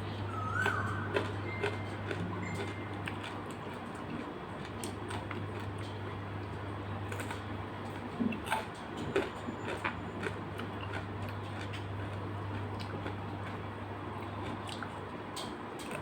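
Eating sounds: scattered small clicks and chewing over a steady low hum.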